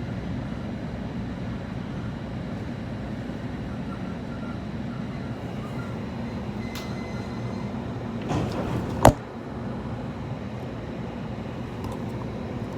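Steady low rumble inside a passenger train car after the emergency brakes have been applied. About eight seconds in, a short swell of noise ends in one sharp, loud bang.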